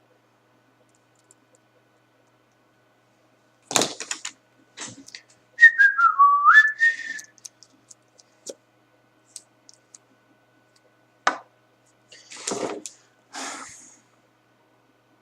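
A person whistling a short phrase that slides down and then jumps back up, among scattered knocks and rustles of things being handled.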